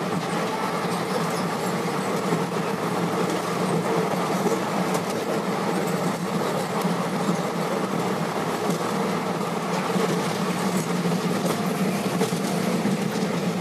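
Passenger train running at speed over a river bridge, heard from inside the coach through a barred open window: a steady rumble of wheels on rails.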